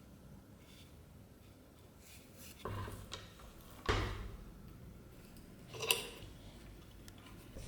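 Tools and parts being handled and set down during hand work: three separate knocks, the one near six seconds a sharper clink.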